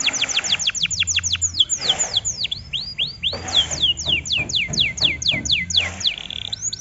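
Canary singing a fast trill of high whistled notes that sweep downward, several a second, shifting to a slower phrase of curved notes about two seconds in before the fast trill resumes.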